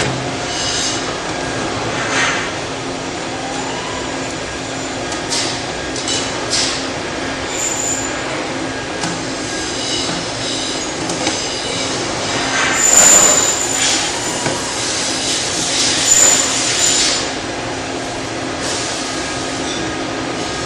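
Sewer inspection camera push cable being fed down a sewer line: a steady mechanical hum with scraping, squealing streaks as the camera head and cable rub along the pipe, loudest about two-thirds of the way through.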